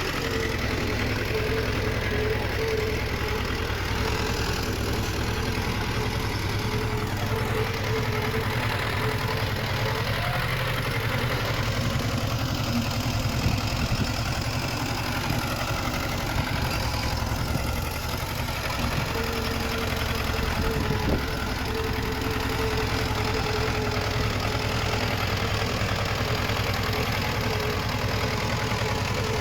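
Diesel engine of heavy earthmoving machinery, most likely a Komatsu D20 crawler bulldozer, running steadily throughout. A thin whine comes and goes above the low engine rumble.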